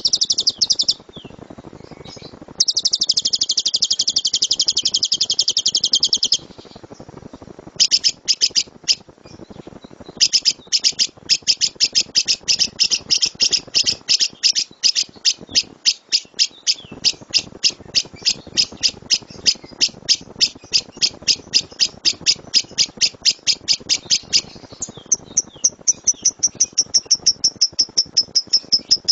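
Lovebird chattering: a dense trill of about four seconds, the ngekek song that keepers try to draw out of their birds. It is followed by a long run of sharp, high repeated chirps at about three or four a second, which turns into a faster, thinner run of chirps near the end.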